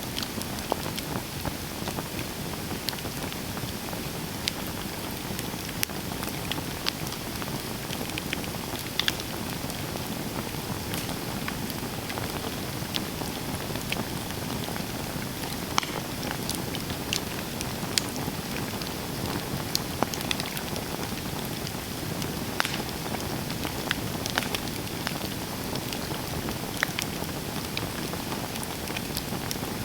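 Campfire burning: a steady hiss of flames with many sharp, irregular crackles and pops from the burning wood.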